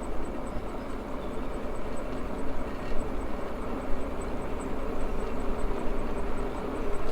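Maxtron Mule folding e-bike riding along: steady wind and rolling road noise with a low rumble, and a faint regular ticking about five times a second.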